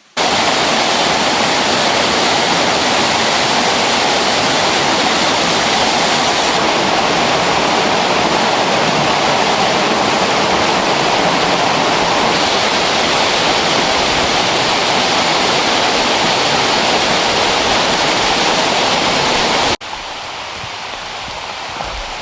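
Waterfall on a rainforest river, a loud, steady rushing of falling water. About twenty seconds in it cuts to a quieter, steady hiss of water.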